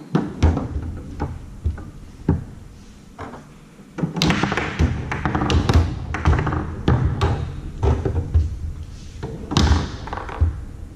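Foosball on a Tornado table: a run of sharp knocks and thuds from the ball being struck by the men and hitting the table walls. Scattered at first, then fast and busy from about four seconds in.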